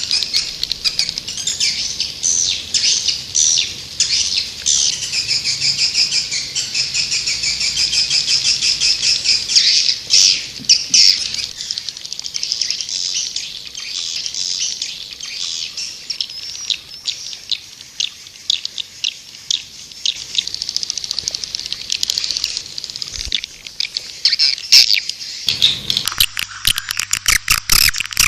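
White-nest swiftlet calls: a dense, continuous twittering of many rapid high chirps and trills. This is a recorded call track used to lure swiftlets. About 25 seconds in it changes to a quicker run of sharper chirps.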